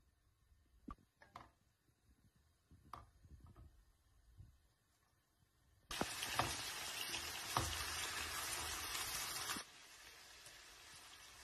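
Diced chicken frying in oil in a nonstick pan, with a few faint pops and ticks at first. About six seconds in, a loud sizzle starts suddenly as the pieces are stirred with a spatula, then drops to a quieter steady sizzle for the last couple of seconds.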